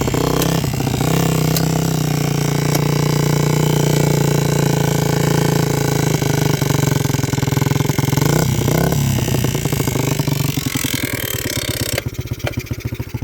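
Small single-cylinder pit bike engine on a homemade trike running at a fast, steady high idle, with a brief rev about eight seconds in. Near the end the idle drops to slow, separate exhaust pulses and the engine gets much quieter.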